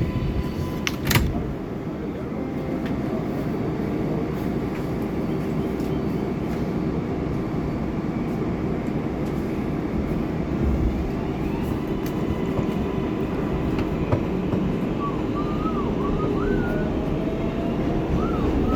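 Interior of an R188 subway car running through the tunnel: a steady rumble of wheels on track, with one sharp clack about a second in.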